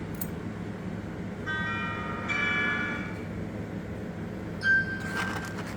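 Bell-like chiming tones, several ringing notes together about one and a half to three seconds in and a single held tone near the end, over a steady low hum.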